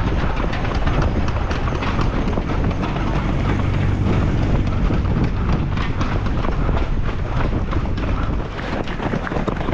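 Running footsteps on the road in a quick, steady patter, with heavy wind rumbling on the microphone.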